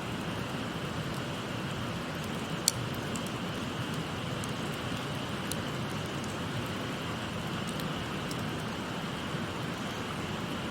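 Steady babbling of a shallow stream, with a wood campfire crackling over it in scattered sharp pops and snaps; the loudest snap comes about two and a half seconds in.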